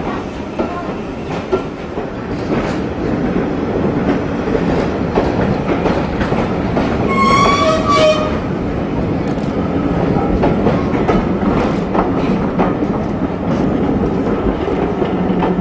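Train running along the track: a steady rumble with rail noise and scattered knocks, and a brief high-pitched tone about halfway through.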